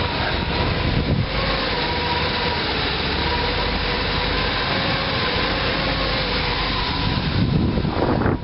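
The GMC 366 gasoline V8 of a 1986 Blue Bird school bus running steadily, with a faint steady whine over the engine noise. The engine has a freshly rebuilt carburettor but will not keep running without the choke.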